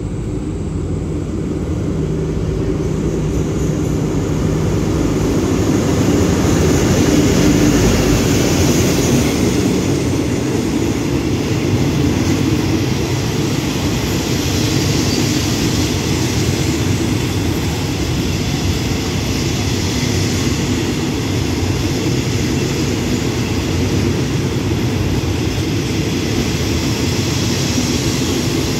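Diesel-hauled passenger train pulling into a station. The locomotive's engine grows louder as it nears and is loudest about seven seconds in. Then the coaches roll past slowly with a steady rumble of wheels on rail as the train slows to stop.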